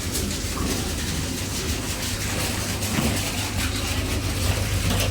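A running machine's steady low hum under an even hiss, with a few faint clicks.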